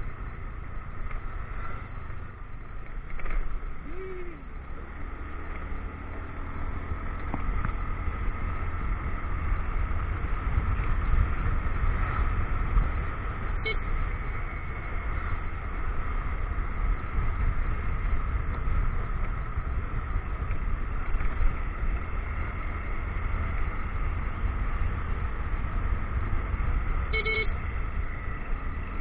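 Motorcycle engine running under way, with a heavy low rumble of wind on the action-camera microphone that grows louder about a third of the way in. Two short beeps come about halfway through and again near the end.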